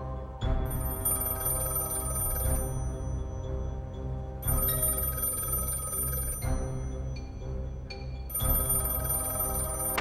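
A bell telephone ringing in three bursts of about two seconds each, with pauses of roughly the same length between them, over background music.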